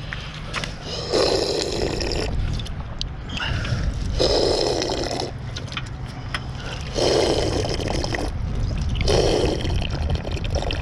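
Water being drunk from a bottle in four long pulls, each about a second long, with gulping and liquid sounds.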